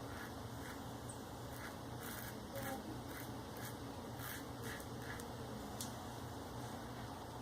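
Short, faint scraping strokes of a Maggard V3A safety razor with a Shark Super Chrome blade cutting stubble through lather on the face, about a dozen irregular strokes over a low steady hum.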